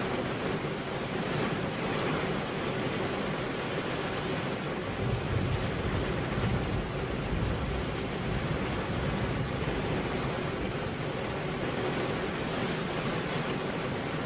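Rain falling on a car window: a steady, even hiss of drops on the glass, with a deeper rumble swelling briefly about five seconds in.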